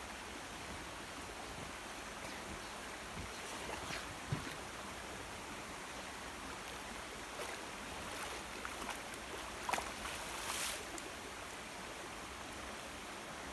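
Steady rush of flowing river water, with a few faint knocks and clicks.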